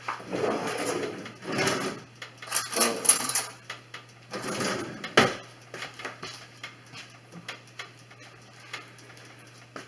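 Kitchen handling noises: utensils and a can being handled in irregular clattering bursts, with a sharp clack about five seconds in, then only a few light ticks.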